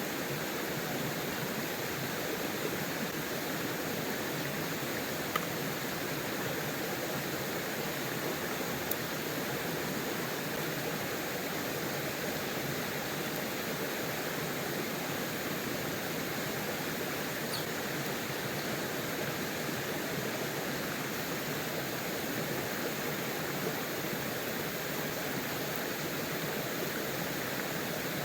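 Steady rushing of flowing water, even and unbroken, with a couple of brief faint ticks about five and nine seconds in.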